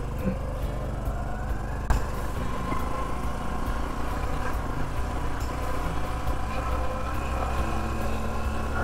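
Motorcycle engine running as the bike is ridden, its pitch rising over the first two seconds, with one sharp click about two seconds in.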